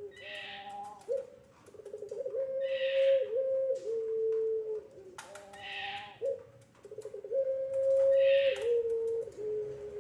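Puter pelung dove cooing: long, drawn-out coos held on a low note that steps down in pitch, with a breathy higher burst starting each phrase about every two and a half seconds.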